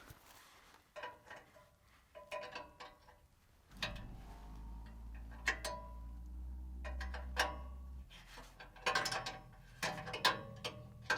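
Hand tools clicking and clinking against metal, with ratchet-like clicks, while an oxygen sensor is being removed from a truck's exhaust. A low steady hum joins about four seconds in.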